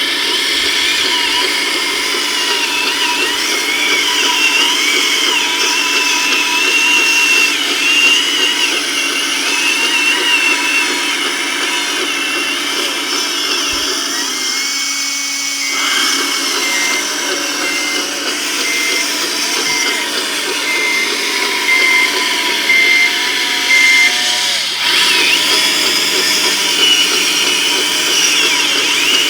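Small electric motors of 1:14 scale RC construction machines whining, several at once, their pitch wavering as they work. In the middle, for about eight seconds, a beeper sounds a steady series of short beeps, about one and a half a second.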